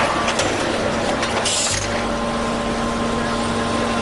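CNC angle steel punching, marking and shearing line running, with a steady mechanical hum and a short hiss about a second and a half in.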